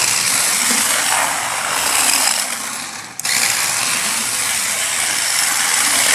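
Small toy RC drift car running flat out: its electric motor and plastic gearbox whirring harshly as it drifts. The sound dips briefly about three seconds in, then picks up again.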